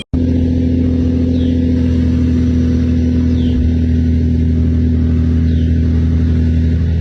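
Heavy truck engine running at a steady speed, a loud, even low drone.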